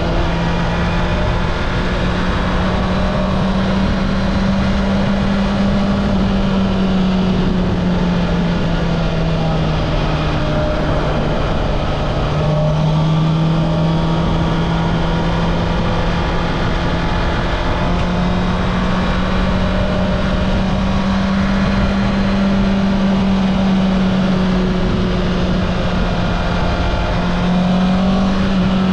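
Honda CB650R inline-four engine running through its stock exhaust at fairly steady revs, the pitch drifting slowly down and back up, lowest about twelve seconds in and rising again near the end.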